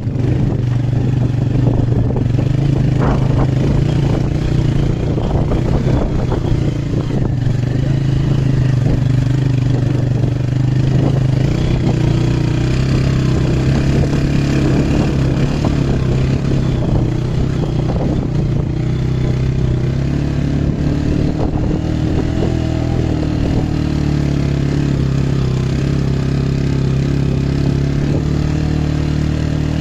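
An engine running steadily, its pitch drifting slightly up and down, with a rattling clatter over it.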